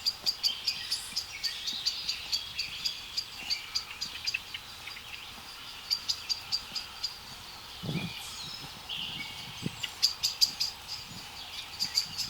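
Wild songbirds chirping in quick repeated series of high notes, with other bird calls over them. There are a few low thumps, one about eight seconds in and another near the end.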